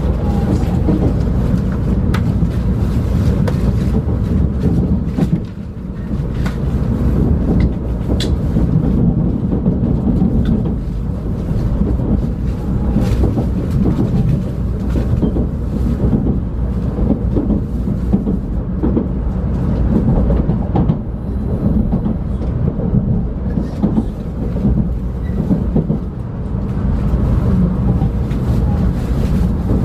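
Shinkansen bullet train heard from inside the passenger cabin: the steady low rumble of the moving train, with scattered light clicks.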